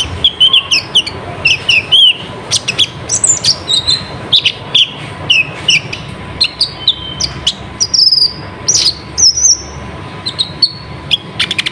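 A kolibri ninja sunbird singing in a fast, jerky stream of short, high, sharp chirps and slurred notes. The song is delivered with hardly a pause.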